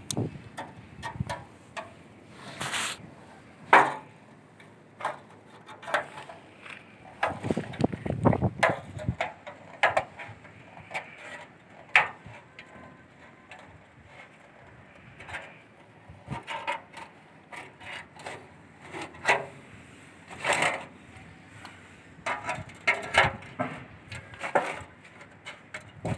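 Irregular knocks, clacks and short scrapes of wooden pieces being handled and set against each other, with no steady rhythm.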